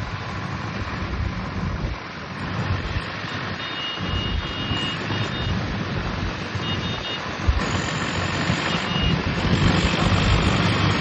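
Swaraj tractor engine running steadily, getting louder near the end. A high two-tone beeping comes in briefly three times in the middle.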